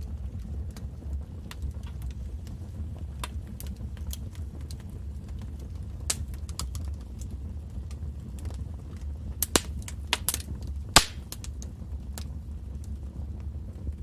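Fireplace fire crackling over a steady low rumble of the flames, with scattered small pops. A cluster of louder sharp pops comes about two thirds of the way in, the loudest one near the end of that cluster.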